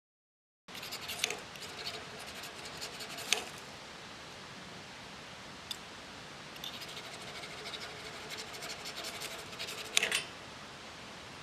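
Scratchy scraping and rubbing, with sharper, louder scrapes about a second in, at about three seconds and near ten seconds.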